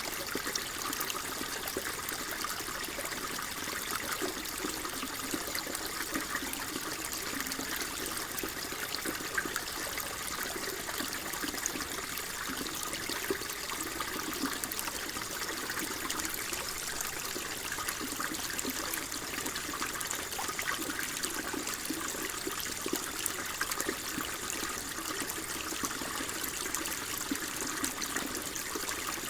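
Water flowing and trickling steadily, like a small stream running over stones.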